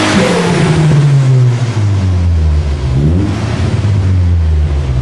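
Turbocharged Nissan Sentra Spec-V's 2.5-litre QR25DE four-cylinder on a dyno at the end of a full-throttle pull: the revs fall away as the throttle is lifted. There is a short blip of the revs about three seconds in and another near the end.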